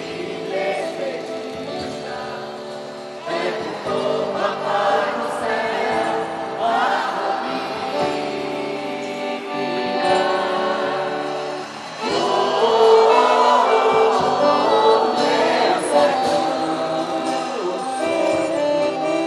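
Music with a choir singing held notes, swelling louder about twelve seconds in.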